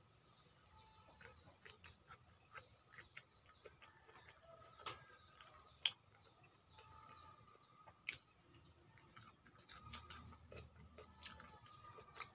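Faint close-up chewing and wet mouth sounds of someone eating boiled banana and boiled sweet potato leaves, with scattered sharp clicks and taps, the sharpest about six and eight seconds in.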